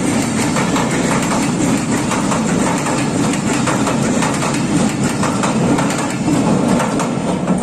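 Train passing at close range: a loud, steady rumble of wheels on the rails, with fast clicking running through it.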